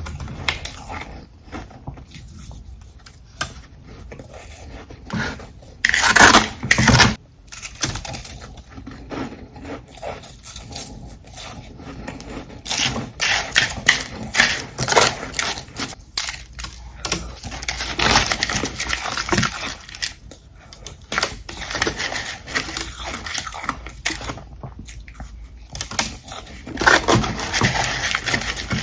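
Close-miked crunching and chewing of ice, bite after bite, with rapid crackling crunches and a loud burst of crunching about six seconds in.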